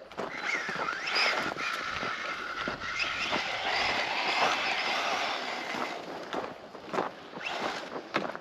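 Electric RC truck driven fast, most likely the Losi Tenacity TT Pro with its 2350 kV brushless motor: the motor whines and rises in pitch as it speeds up, and steadies through the first few seconds. Then a rougher hiss of tyres on sand takes over, with scattered clicks.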